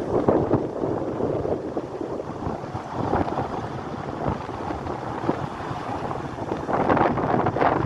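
Strong typhoon wind buffeting the microphone over rough sea surf, rising and falling in gusts and swelling louder near the end.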